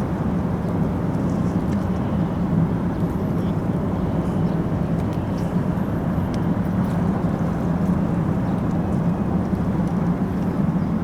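Steady low rumbling hum of a cruise ship's engines and machinery, with no break or change.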